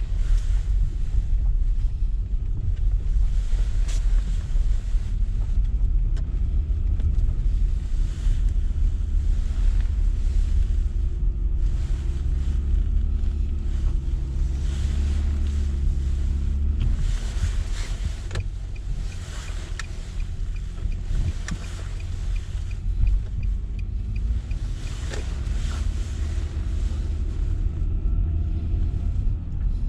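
Steady low rumble of a vehicle under way, with a faint engine hum that drifts up and down. A faint regular ticking runs through the second half.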